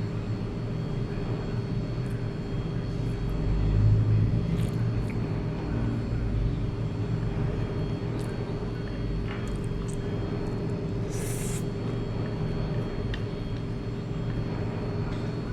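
Steady low rumble of background traffic with a steady hum, swelling briefly about four seconds in. A few light clicks and a short hiss about eleven seconds in.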